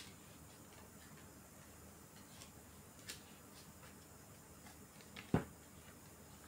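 Quiet room with a few faint clicks and ticks, and one louder, duller knock about five seconds in.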